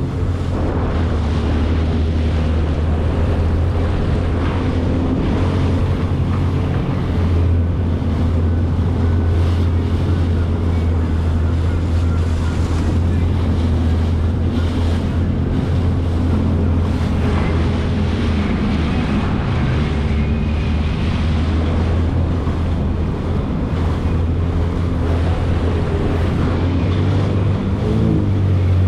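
Jet ski engine running at a steady speed, a constant low drone with its overtones, under wind buffeting the microphone and the hiss of water spray.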